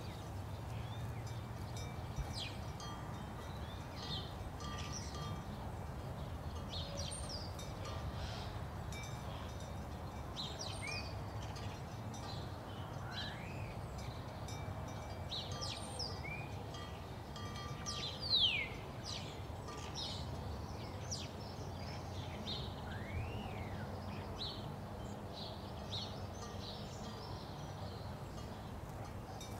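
Many birds chirping, with short rising and falling calls scattered throughout, over a steady low hum. A louder call falls in pitch about eighteen seconds in.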